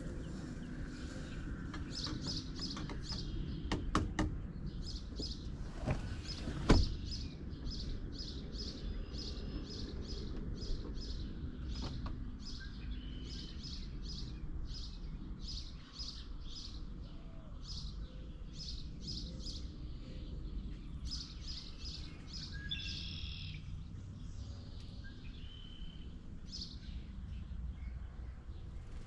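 A small songbird chirping over and over, about two short chirps a second, over a low steady rumble. A few sharp knocks stand out, the loudest about seven seconds in.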